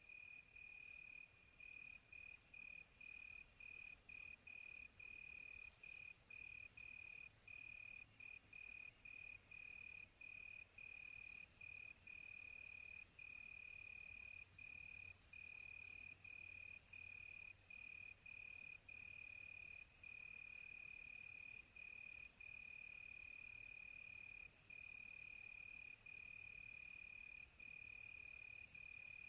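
Crickets chirping at night: a faint, steady high-pitched trill broken by frequent short gaps, over a fainter, higher hiss of other insects that swells in the middle.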